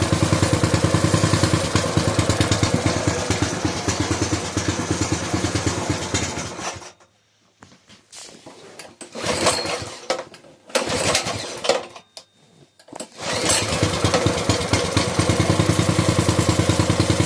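Coleman minibike's small single-cylinder engine running with an even pulse, then cutting out about seven seconds in. It sputters twice and catches again near the end, running on. The stalling comes from a fault the owner is about to fix by replacing the carburetor.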